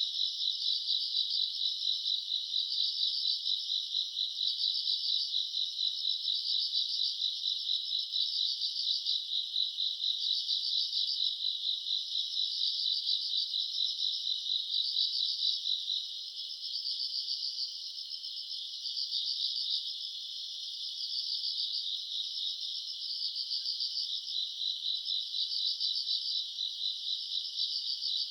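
A night chorus of crickets and other grass insects chirping steadily in pulsed trills about once a second. It thins briefly a little past halfway, then fills in again.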